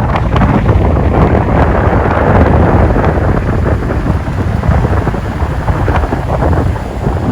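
Strong wind buffeting the microphone: a loud, continuous blustery noise.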